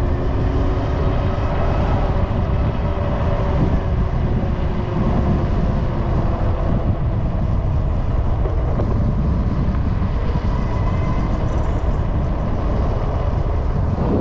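Wind rumbling on the microphone during a ride on a Super73 electric bike, with the electric motor's whine and tyre noise running underneath. The whine drifts slowly up and down in pitch as speed changes.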